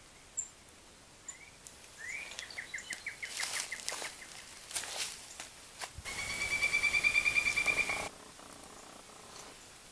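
A small songbird trilling: a short trill of quick repeated notes, then, about six seconds in, a louder two-second trill of rapid notes at one steady pitch. A few sharp clicks fall between the two trills.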